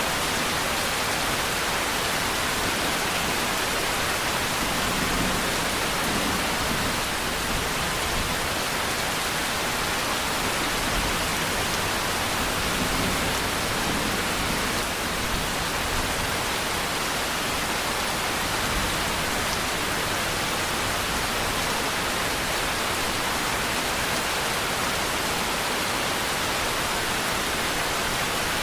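Steady, dense rain: an even hiss of falling rain with no separate drops standing out.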